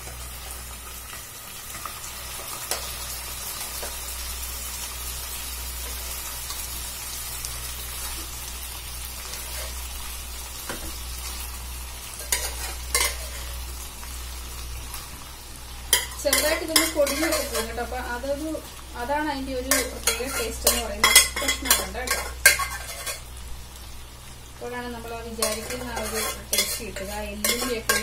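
Marinated chicken pieces sizzling in hot coconut oil with fried onions in a nonstick pan. From a little past halfway, a spatula stirs the chicken, scraping and knocking against the pan in bursts.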